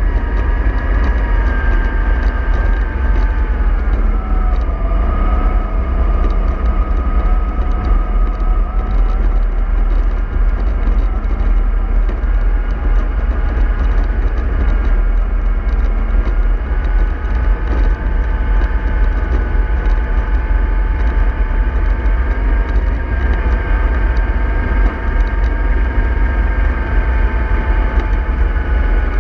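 A vehicle's drive running with a steady whine over a low rumble; the whine drops in pitch a few seconds in, then holds.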